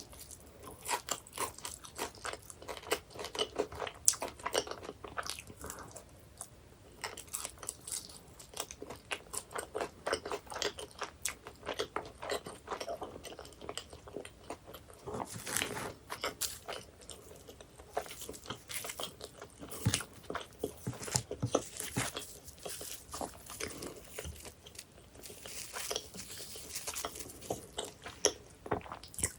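Close-up eating of baked pies: crisp pastry crackling under bites, then wet chewing, repeated irregularly throughout.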